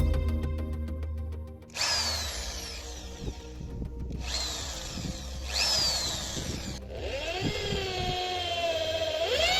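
INGCO ID11008 1100 W corded impact drill's electric motor being triggered in bursts: it whines up to speed and winds down with a falling pitch three times, then spins up again near the end.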